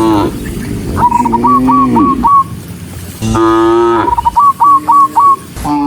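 Cattle mooing several times, long low calls that fall in pitch. Between the moos, runs of four or five short high whistle-like chirps recur about every three seconds.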